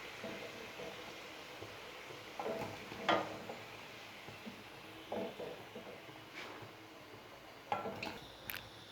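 Hot mustard oil sizzling faintly in a pan as fried potato pieces are lifted out, with a few light knocks and scrapes of the cooking utensil against the pan.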